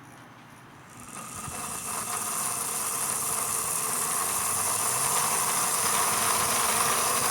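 The small electric motor of a model GP40-2 locomotive being test-run: it starts about a second in, builds up over a couple of seconds, then runs steadily with a whine and hiss. It is the sign that the motor works.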